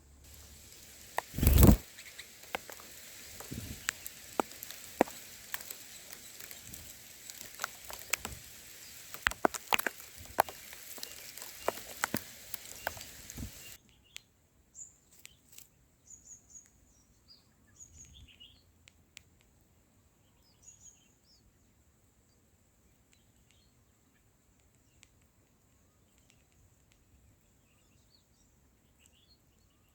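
A loud bump, then a steady hiss with scattered clicks and taps that cuts off abruptly about halfway through; after that, faint short bird chirps.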